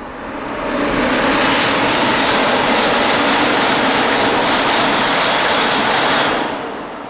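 A coupled E5 and E6 series Shinkansen train passing at speed, a loud steady rush of air and running noise with wind buffeting the microphone. It swells over the first second and dies away in the last second.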